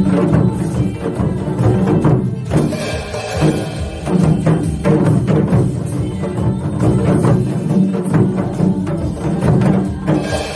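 Music with janggu, the Korean hourglass drum, struck in a quick steady rhythm: a group playing gogo janggu along to a song.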